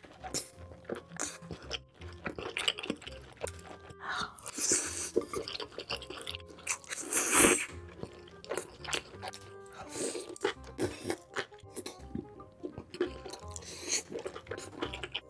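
Close-miked chewing of chewy braised octopus: wet smacks, squelches and crunches. The loudest mouth noise comes about halfway through. Background music plays underneath.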